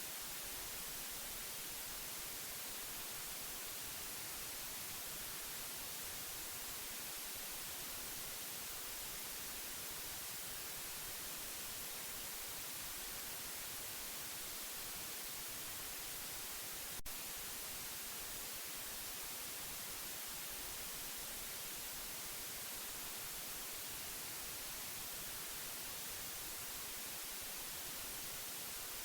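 Steady white noise: an even, unchanging hiss, with one short click about two-thirds of the way through.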